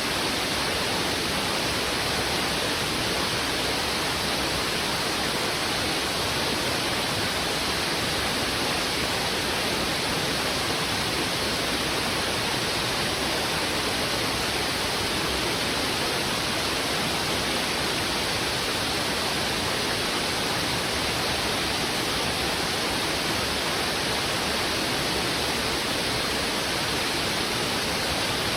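Heavy river water rushing, a dense steady hiss with no single splashes standing out.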